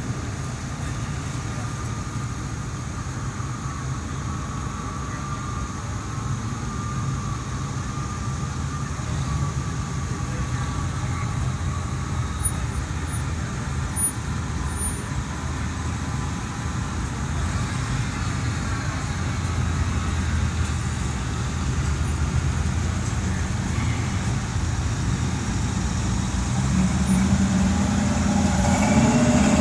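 A vehicle engine running steadily with a low rumble, growing louder near the end.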